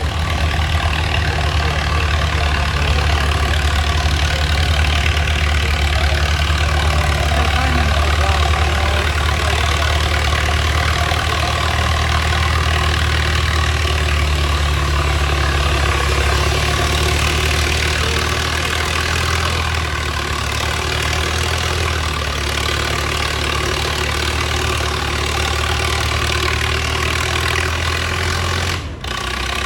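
Antique farm tractor engine running steadily with a low, even note, softening slightly about two-thirds of the way through and briefly cut near the end.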